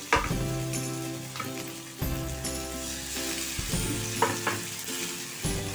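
Masala-coated fish steaks sizzling steadily as they shallow-fry in hot oil in a nonstick pan.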